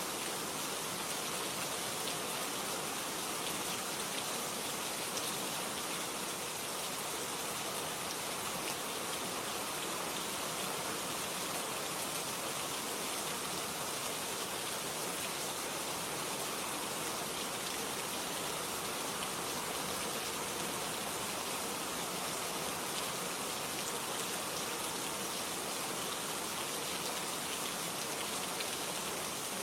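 Steady rain falling on a surface, an even hiss of many fine drops with no change in strength.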